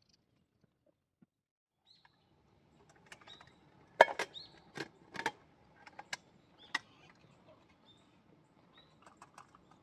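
Short high bird chirps, with a cluster of sharp knocks and clatters about four to seven seconds in, the first knock the loudest.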